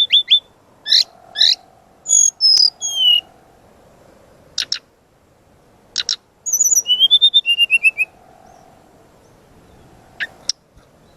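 Sridecu song recording of the kind played as masteran and pancingan for cage birds: bursts of sharp high chirps, short falling whistles and quick trills, separated by pauses.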